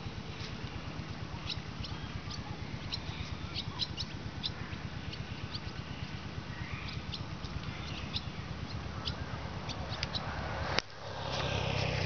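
Birds chirping over and over, short high calls scattered through, over a steady low rumble. A sharp click comes near the end, and a louder rushing noise follows.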